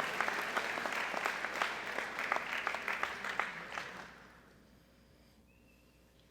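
Audience applauding, the clapping dying away about four seconds in and leaving near silence.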